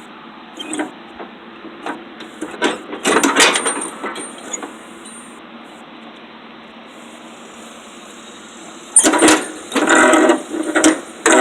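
Metal parts clanking and rattling in two bouts, one about three seconds in and a louder one starting about nine seconds in, with a faint high ringing after some of the knocks.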